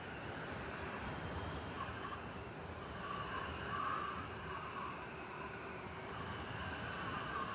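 City blizzard ambience: steady wind noise with a whistling tone that swells and fades every second or two, over a low rumble.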